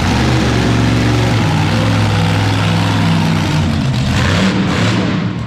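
Monster truck engine running loud and revving, its pitch shifting about a second and a half in, with a rough noisy exhaust haze over the engine note.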